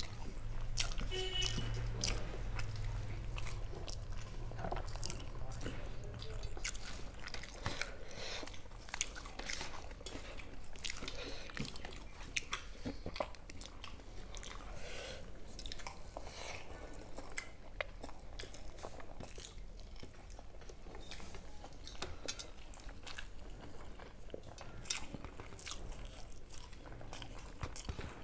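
Close-up chewing and crunching of food, crisp fried fritters eaten with rice, as a steady run of small crackling crunches.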